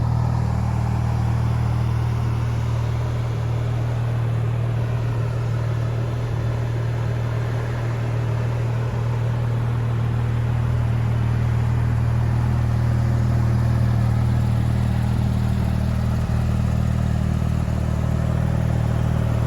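Porsche 911 GT3 (2010, 997.2) 3.8-litre flat-six idling steadily through BBI side-pipe exhaust, a constant low hum with no revs.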